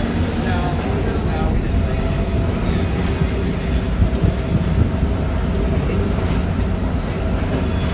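Passenger train rolling on curving track, heard from an open-sided car: a steady rumble of wheels on rail, with high wheel squeal coming and going several times as the flanges grind through the curve.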